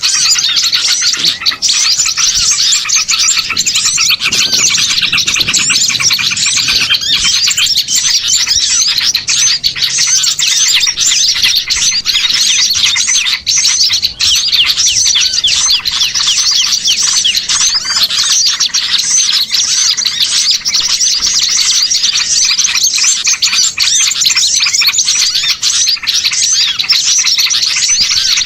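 A dense, continuous chorus of many small songbirds chirping and chattering at once, rapid high notes overlapping without a break. It is a noisy small-bird lure recording, played to call wild birds in for trapping.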